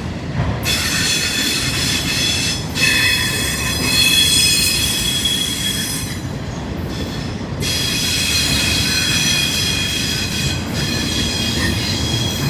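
Freight train cars rolling past with their wheels squealing in several steady high-pitched tones over a low rumble; the squeal drops away about six seconds in and comes back a second and a half later.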